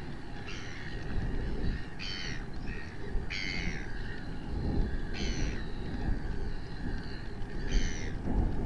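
Short, harsh bird squawks, about five of them spaced a second or two apart, over a steady low rumble of wind on the microphone.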